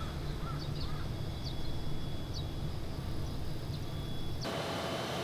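Outdoor ambience: a steady low rumble with a bird chirping briefly several times. About four and a half seconds in it cuts suddenly to the steady hiss and hum of plastic-film factory machinery.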